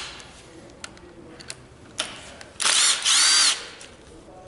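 A handheld power tool, such as a drill or driver, runs in two short bursts of about a second in all, its motor whine rising and then falling. A sharp click comes just before it.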